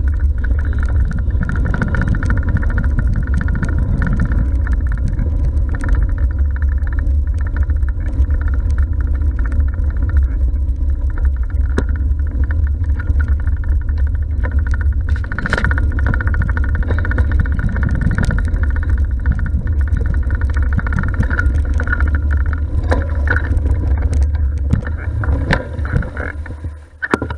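Steady low wind rumble on a GoPro microphone with road noise from a moving bicycle, fading out near the end.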